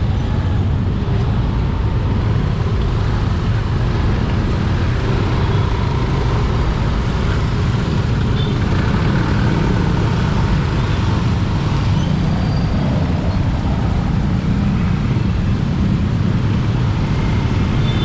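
Motorcycle riding in traffic, heard through a bare action camera's microphone: a steady loud low rumble of engine and wind on the mic, with road and traffic noise.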